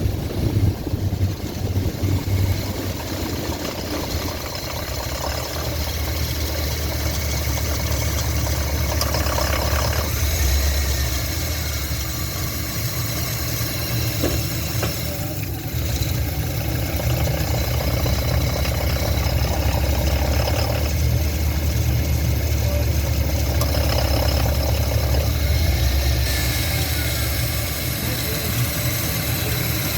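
2012 GMC Yukon's 5.3-litre V8 idling steadily in drive, with the ticking noise that the owner is chasing and says is not the cause one would expect.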